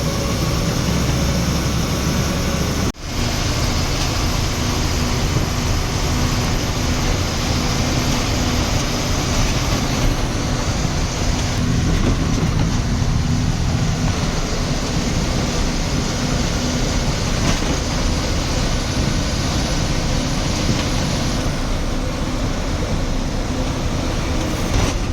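Heavy 14-wheel truck's diesel engine and road noise while cruising, a steady drone, with a brief break in the sound about three seconds in.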